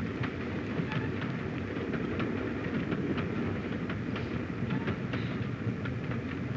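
Steady rumble of a moving passenger train heard from inside a carriage, with repeated clicks of the wheels over the rail joints.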